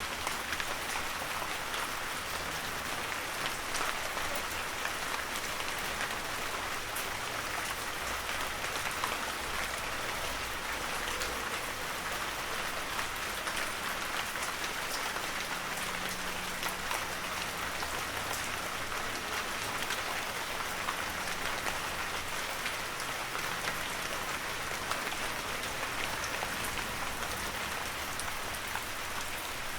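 Heavy, steady rain falling, with a constant hiss and many distinct drop ticks throughout.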